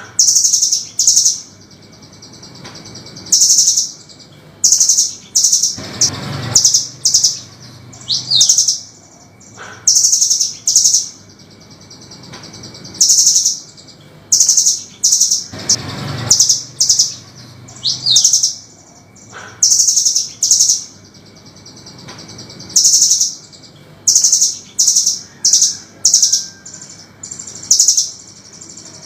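Velvet-fronted nuthatch (burung rambatan) giving harsh, sharp, high-pitched calls in quick bursts of rapid notes every second or two. The phrase sequence repeats about every ten seconds over a faint low hum.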